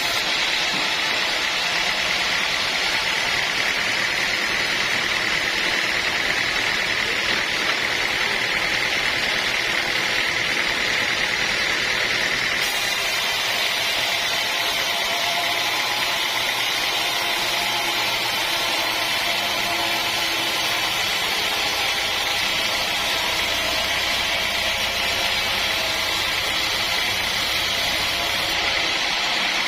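Sawmill machinery running steadily, a constant mechanical noise, with a low hum joining it for a while in the second half.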